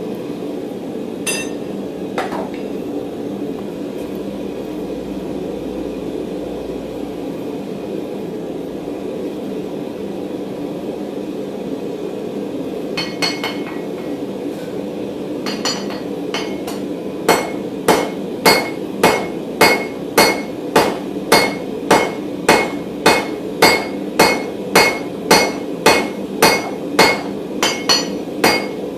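Hand hammer striking hot mild steel bar on an anvil: a few scattered blows, then, from a bit over halfway, a steady run of ringing strikes at about one and a half a second as the round bar is drawn down to a square section. A steady hum from the running forge lies under it.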